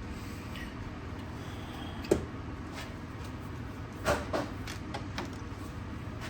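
A few sharp knocks and clicks: the loudest about two seconds in, a quick cluster around four seconds, and a lighter one just after five seconds, over a steady low rumble.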